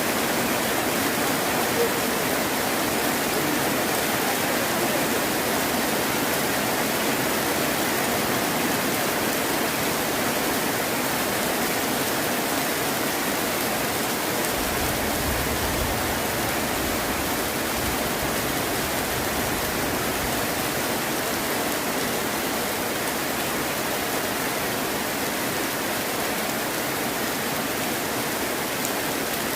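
Heavy rain falling steadily as an even, dense hiss, with a faint low rumble for a couple of seconds about halfway through.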